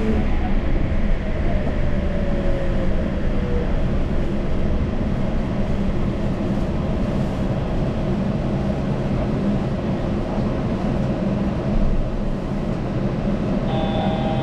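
Yurikamome rubber-tyred automated guideway train running, a steady rumble of tyres and traction motors with a falling motor whine in the first few seconds. A short steady electronic tone sounds near the end.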